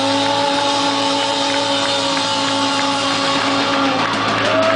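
Live pop-punk band playing: amplified electric guitar holding a sustained ringing chord over drums.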